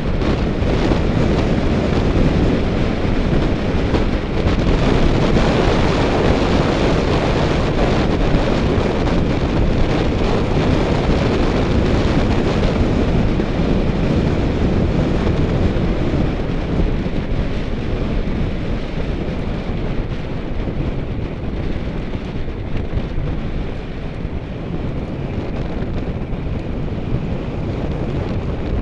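Wind rushing over the microphone of a camera carried on a bicycle during a group road ride, a loud, steady rush that is a little softer in the second half.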